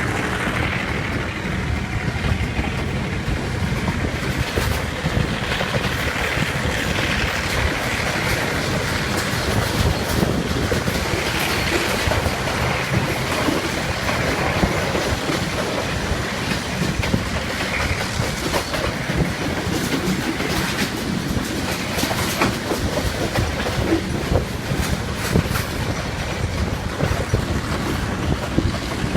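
Passenger train hauled by a Class M2c EMD two-stroke diesel locomotive running at speed: a steady rumble with wheels clicking and clattering over the rail joints.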